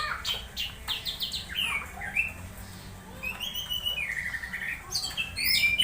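Orange-headed thrush singing a jumble of short chirps, squeaks and quick whistled slides, in fast, uneven phrases.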